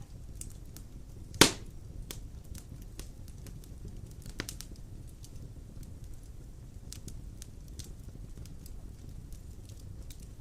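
Large logs burning in a stone fireplace: a steady low rumble of flames with scattered crackles, one loud sharp pop about a second and a half in and a smaller one near the middle.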